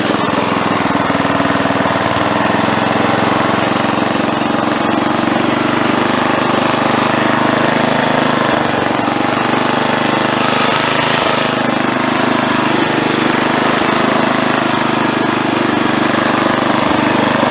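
Wheel Horse A-800 Ranger lawn tractor's engine running steadily while driving.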